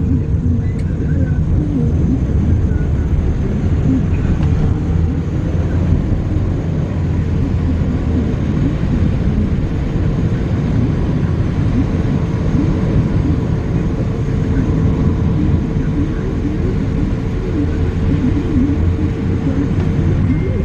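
Inside a moving car in heavy rain: a steady low rumble of road and engine noise with the hiss of rain, and a faint steady hum.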